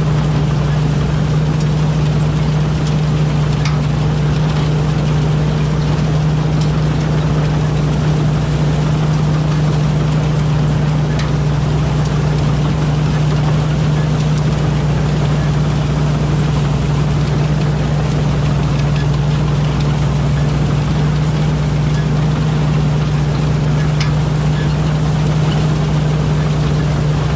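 Rice combine harvester running steadily at working speed, a loud, even engine drone with a constant low hum that does not change.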